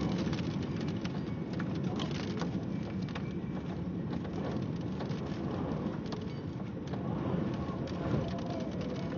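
Steady rain falling during a thunderstorm, with many small drop hits ticking over a dense low wash of noise.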